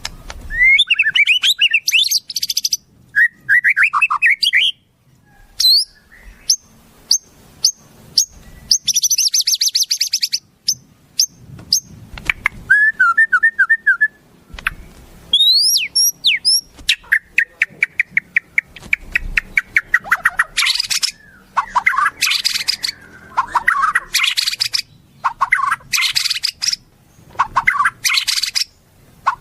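Bird song from a shama tutoring (masteran) track of wild-bird song: a run of varied loud phrases, with rising and falling whistles, very fast high trills, repeated short slurred notes and chattering, one after another with short pauses.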